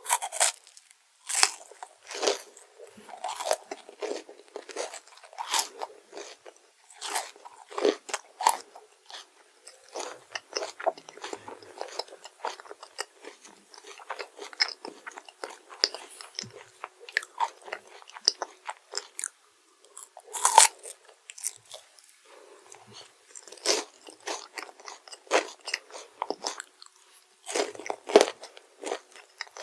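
Close-miked eating of crunchy chocolate desserts: repeated crisp bites and crunching chews in an irregular run, with a few louder bites standing out, one of the loudest about two-thirds of the way through.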